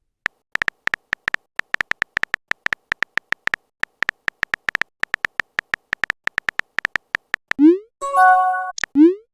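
Chat-app typing sound effect: a rapid, uneven run of short clicks, about six to eight a second. Near the end it gives way to a rising electronic swoop and a short chime.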